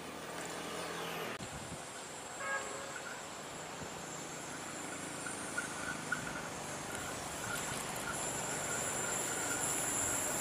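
KA Prameks diesel multiple unit approaching on a curved track, its running growing steadily louder. A steady high insect buzz sets in about two-thirds of the way through.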